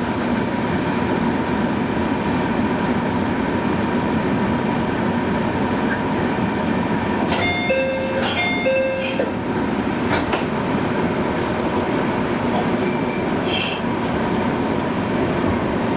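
Meitetsu electric train pulling slowly out of a station, heard from the cab: steady running noise of motors and wheels on rails. Two short, flat tones sound about halfway through.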